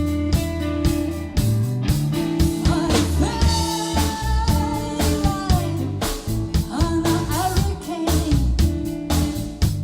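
Rock-blues band playing: a woman's voice singing over electric guitar, bass guitar and a drum kit, the voice coming in about three seconds in.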